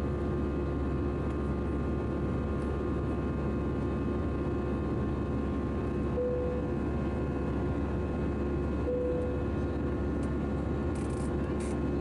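Cabin noise of an Airbus A319 in flight: a steady rush of airflow and turbofan engines with constant engine hums. Two short tones sound about three seconds apart midway.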